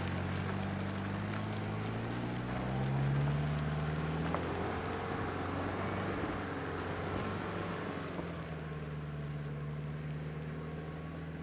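Off-road 4x4's engine running at low revs as it crawls over rough trail, the revs rising briefly about three seconds in and then settling back, with a few faint knocks.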